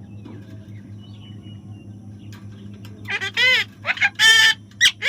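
Parrot calling: after a few seconds of a low steady hum, loud short calls with an arched pitch come in about three seconds in, in two quick pairs.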